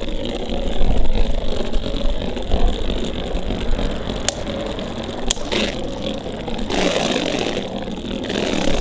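Beyblade Burst tops spinning in a plastic stadium with a steady whirring scrape, with a few sharp clicks of the tops clashing a little past the middle and a louder scraping clash about seven seconds in.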